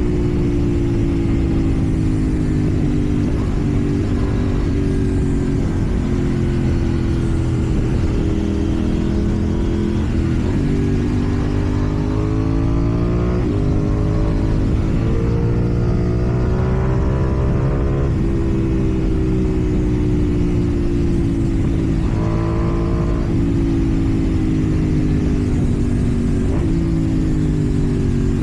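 KTM Duke 790's parallel-twin engine running through a slip-on exhaust while riding, its pitch rising three times as the throttle is opened and falling back in between.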